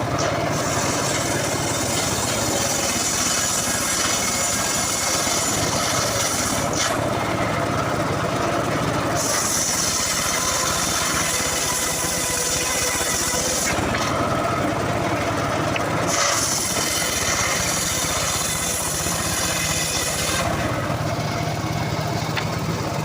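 Engine-driven homemade circular sawmill running steadily, its blade cutting a mahogany log three times. Each cut lasts four to six seconds and brings a loud high hiss, and the engine runs on between the cuts.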